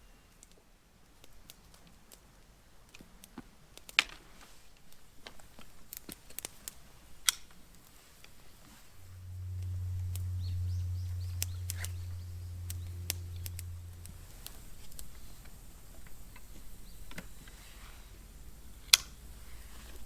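Wood bonfire crackling, with scattered sharp pops and snaps. A steady low hum comes in about nine seconds in and fades about five seconds later.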